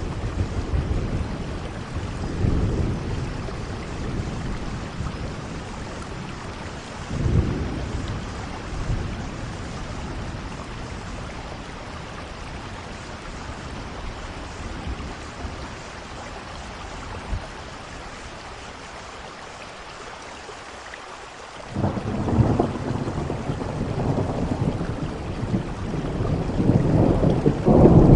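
Steady rainfall with rolling thunder: low rumbles in the first several seconds, a quieter stretch of rain alone, then a loud rumble of thunder breaking in about three quarters of the way through and building toward the end.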